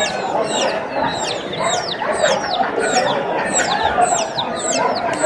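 Many caged birds calling at once: chickens clucking under a dense, steady chatter of short, high, falling chirps.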